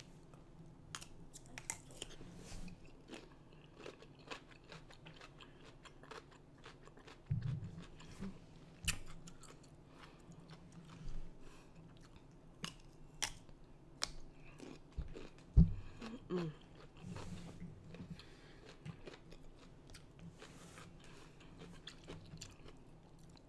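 Close-miked crunchy bites and chewing of a whole raw cucumber, with wet mouth clicks scattered throughout; the loudest crunch comes a little past halfway.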